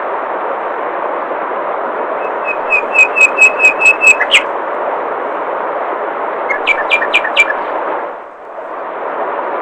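Steady rush of flowing water with a bird calling two quick series of sharp, repeated whistled notes, the first and longer one about two seconds in, the second around seven seconds in. The water sound briefly dips about eight seconds in.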